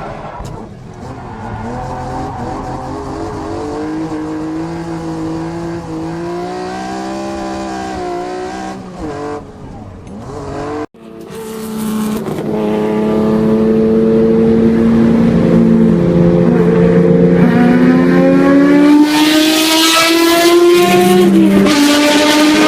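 First-generation Honda NSX's naturally aspirated V6 being driven hard. The engine note rises with the revs and steps down at gear changes. Two clips are joined by an abrupt cut about eleven seconds in, and the second clip is louder.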